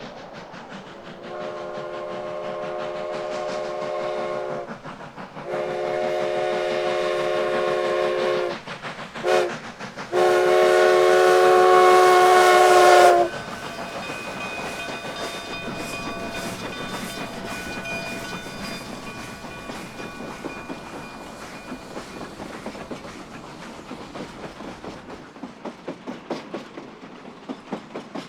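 Steam whistle of narrow-gauge K-36 steam locomotive #484 blowing the grade-crossing signal: two long blasts, a short one and a final long blast, the last the loudest. The train then rolls by with a steady rumble and regular clicking of wheels over rail joints that slowly fades.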